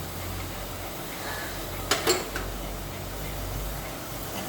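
A spoon clinking against the cooking pan, two or three sharp knocks about two seconds in, over a steady low hum.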